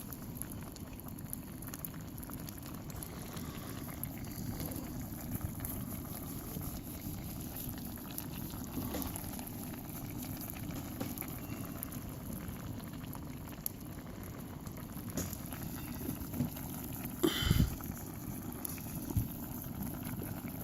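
A pot of fish stew simmering over a campfire, bubbling steadily. A brief knock sounds about three-quarters of the way through.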